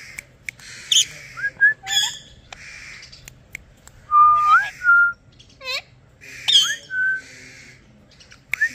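Indian ringneck parakeet whistling: short whistles that sweep upward and level off into held notes, several times over, mixed with harsh breathy calls and a few sharp clicks.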